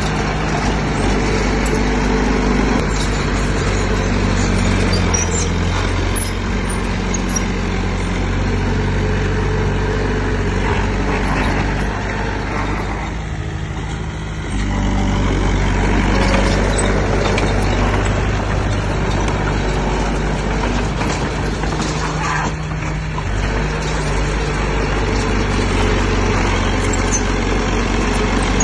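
Heavy diesel engine of earthmoving equipment running steadily under load. It eases off briefly about halfway through, then picks up again.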